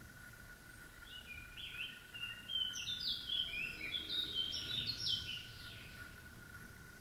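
A songbird singing one long, rapid phrase of many short, high chirping notes, starting about a second in and stopping a little after five seconds, over a faint steady high hum.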